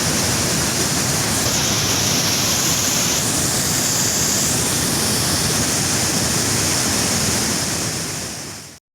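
Steady rush of water from a river waterfall, fading out near the end and then cutting to silence.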